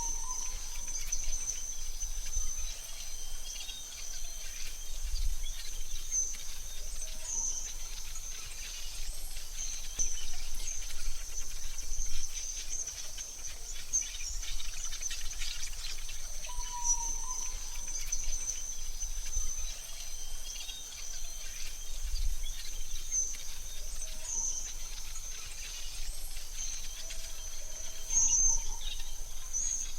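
AI-generated forest ambience: a steady high insect trill, with short bird chirps now and then over a soft hiss and a low rumble.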